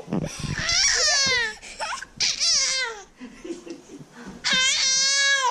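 A baby's voice, three long high-pitched cries that each fall in pitch, with a low bump at the start.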